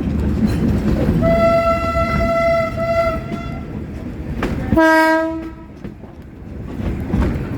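Diesel locomotive horn sounding over the rumble of the moving train: one steady blast of about two and a half seconds starting about a second in, then a shorter, lower blast just under five seconds in.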